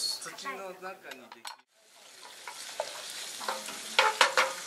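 Sliced shiitake mushrooms and carrot strips sizzling as they are stir-fried in a hot pan, a wooden spatula stirring and scraping them, with a few sharp knocks of the spatula against the pan near the end.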